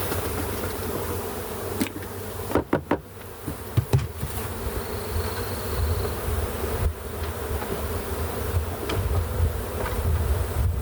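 A honey bee swarm buzzing in a steady, dense hum as it is dumped into a hive, with a cluster of sharp knocks about two and a half to four seconds in as the box is knocked to shake the bees out.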